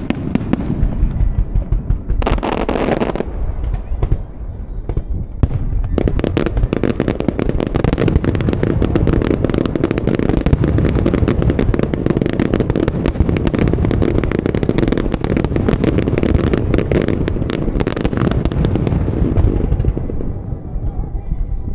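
Fireworks display: aerial shells bursting with booms and crackles, scattered at first, then a dense rapid barrage from about six seconds in that thins out near the end.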